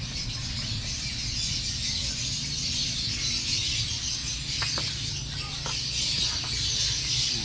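Many birds chattering together in a steady, dense high chorus, with a few short clicks about five seconds in.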